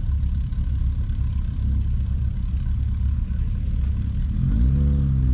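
A vehicle engine runs with a low rumble. About four seconds in it revs up, its note rising and then holding steady.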